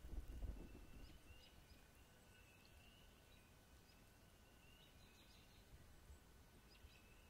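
Near silence with faint, short high bird calls repeating every second or so, and a brief low rumble in the first second.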